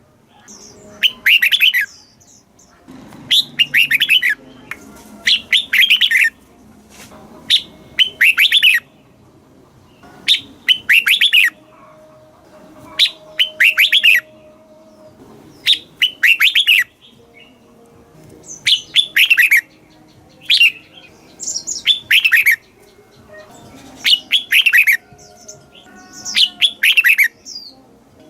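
Red-whiskered bulbul singing: short, bright warbled phrases repeated about every two seconds, each well under a second long.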